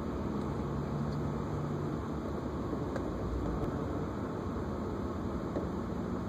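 BMW E36's M52 straight-six idling roughly once warm, its speed fluctuating. The owner suspects a dirty idle control valve, an O2 sensor or the MAF sensor.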